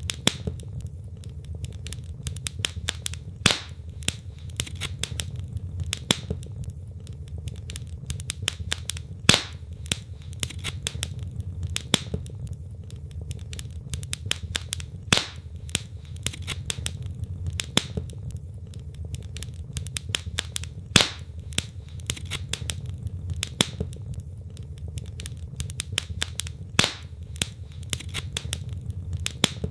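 Wood fire in a fireplace crackling steadily over a low rumble of the flames, with a louder single pop from the burning logs about every six seconds.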